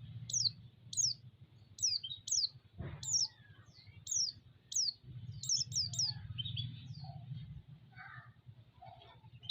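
White-eye (pleci) calling: a string of sharp, high chirps, each sliding quickly downward, about one to two a second, over a low steady hum.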